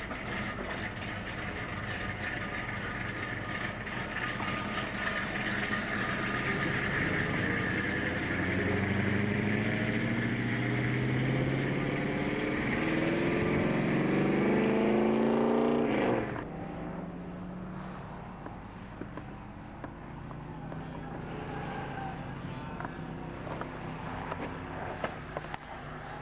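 1969 Ford Mustang Mach 1's 428 Cobra Jet V8 running, its pitch climbing steadily for several seconds as the revs build. The sound cuts off suddenly about two-thirds of the way through, and the engine is then heard fainter, as from farther away.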